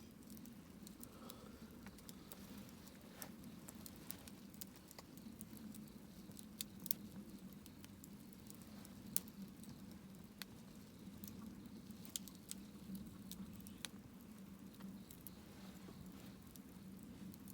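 Wood campfire crackling faintly: irregular sharp snaps and pops, a few louder ones standing out, over a low steady hum.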